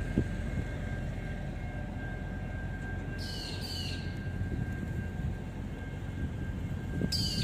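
Freight train's boxcars rolling past at steady speed: a low, even rumble with a faint steady high whine. Brief high squeaks come in a pair about three seconds in, and again near the end.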